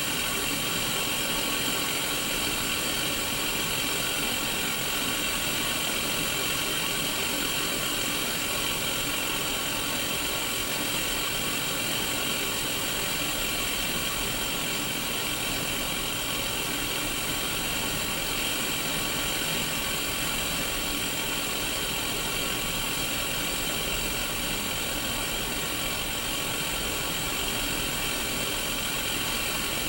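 Steady white-noise hiss of static from a Sony Mega Watchman mini black-and-white CRT TV tuned to an empty channel, loudest in the upper middle and unchanging throughout.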